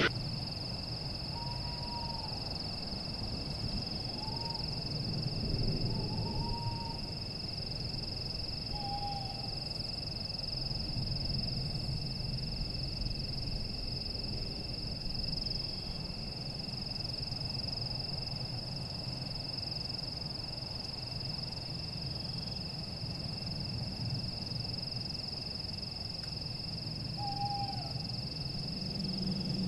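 A few short bird calls, about four in the first ten seconds and one more near the end, over a steady high-pitched hum and a low rumble.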